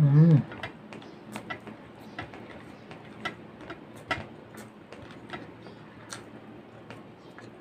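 Close-up mouth sounds of eating rice and fish by hand: chewing and lip smacks as a string of sharp wet clicks, irregular, a few a second. It opens with a short loud hum from the eater, rising then falling in pitch.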